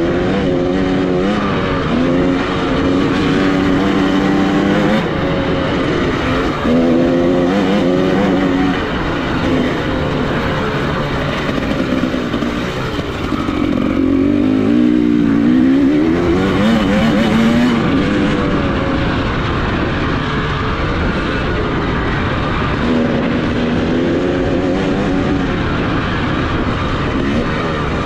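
Dirt bike engine under hard riding, revving up and dropping back again and again as the throttle opens and closes and the gears change.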